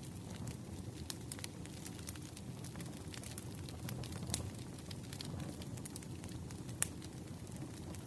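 Campfire crackling: a steady low rumble of burning wood with scattered sharp pops and snaps, one louder snap about seven seconds in.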